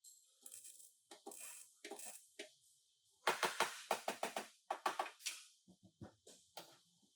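An irregular run of short knocks and clatters, loudest and densest in the middle.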